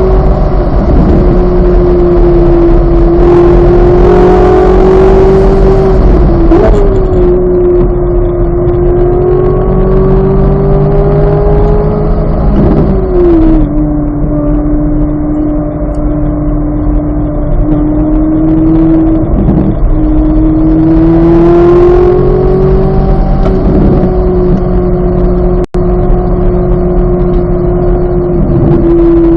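2023 Chevrolet Corvette Z06's flat-plane-crank V8 running hard on track, its note holding steady, then dropping sharply about 13 seconds in and climbing slowly again before falling once more near the end.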